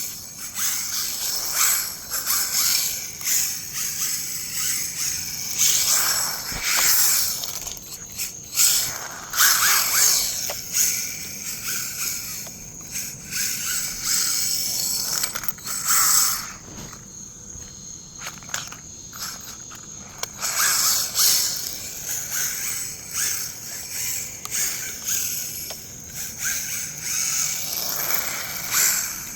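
Radio-controlled rally car driving and drifting: its electric motor whine and tyre scrub rise and fall in repeated bursts as it is throttled, with a quieter spell in the middle.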